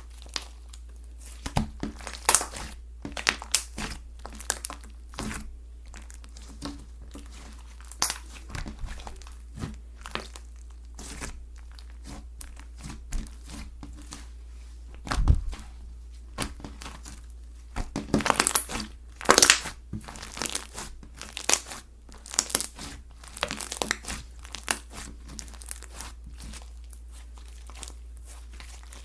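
Slime being squished and stretched by hand, giving irregular crackling and popping clicks, with a dense run of pops about two-thirds of the way through.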